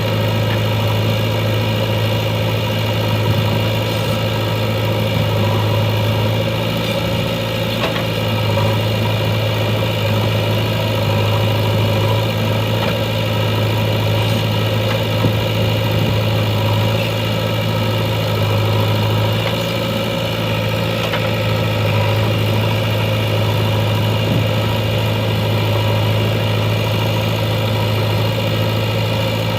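Diesel engine of a JCB 3DX backhoe loader running steadily at an even, low speed.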